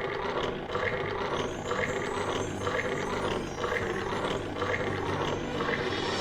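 Rhythmic chugging of a train running along, about two beats a second, over background music.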